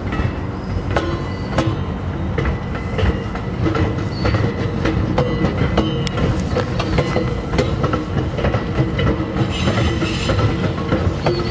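A commuter train of bilevel passenger coaches rolling slowly past, its wheels clicking irregularly over rail joints above a steady low rumble.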